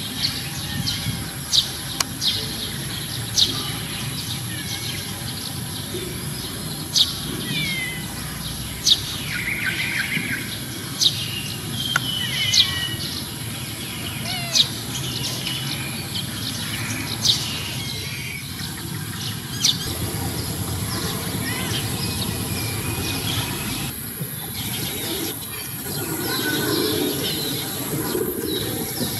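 Small birds chirping: a dozen or so short, sharp, falling chirps spaced one to three seconds apart over steady outdoor background noise.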